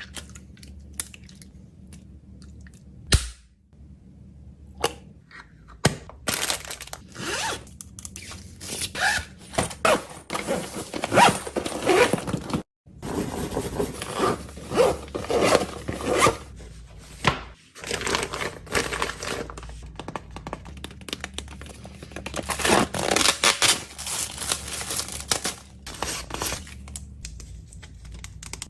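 Plastic packaging being crinkled and torn in rapid, irregular bursts, with scrapes and sharp knocks of small items handled during packing. A few separate knocks come first, then the crinkling runs almost continuously.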